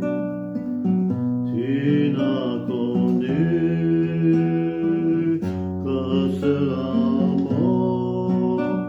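A man singing a slow French ballad with held notes, accompanied by acoustic guitar.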